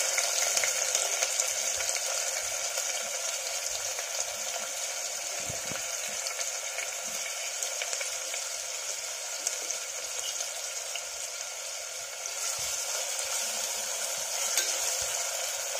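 Chopped onion frying in hot oil in an open pressure cooker, a steady sizzle. About twelve seconds in the sizzle brightens again as a spatula stirs the onion, with a few light scrapes.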